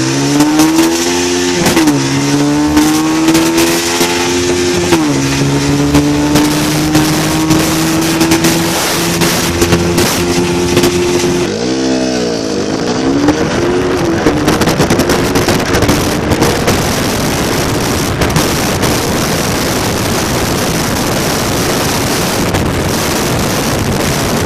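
Single-cylinder 200 cc motorcycle engine accelerating hard through the gears, its pitch climbing and dropping at gear changes about two and five seconds in, with a sharp dip and climb near the middle. A loud rushing noise builds and drowns the engine in the second half.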